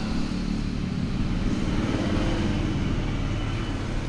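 Steady rumble of motor vehicle engines and road traffic, with no clear start or stop.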